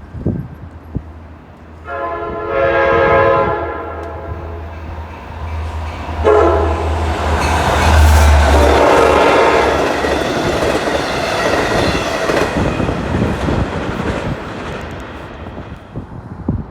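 A train sounds its horn as it passes: a short blast about two seconds in, then a longer one from about six seconds, over the rush and clatter of wheels on the rails, fading near the end.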